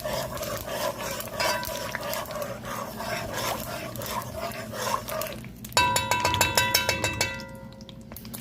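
Stirring and scraping in a hot pot of oil and sugar as the sugar browns. About two-thirds of the way through, a steady high-pitched tone with overtones sounds for under two seconds among the stirring clicks.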